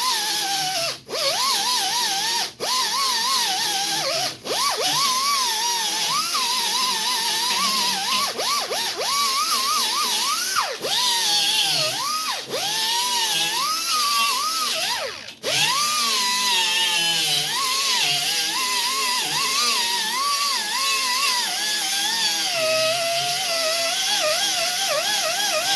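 Small hand-held power tool grinding into cracked body filler on a car body, its whine rising and falling in pitch as it is pressed in and eased off. It stops for a moment about a second in, at about two and a half, four and a half, ten and a half, and fifteen seconds.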